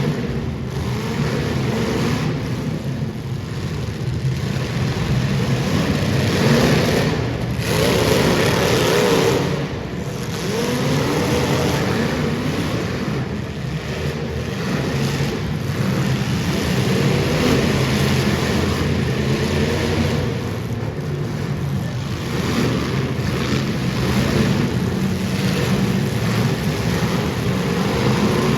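Super stock race car engines revving at racing speed, their pitch rising and falling continuously.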